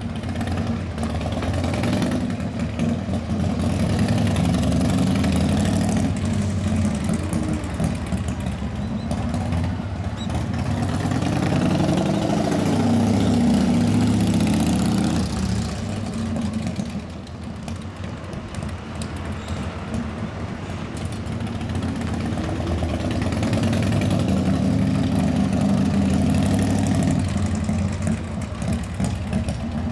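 Harley-Davidson 1991 FXDB-S Dyna Glide Sturgis's 1340 cc Evolution V-twin running, its engine speed swelling up and easing back down twice rather than sitting at a steady idle.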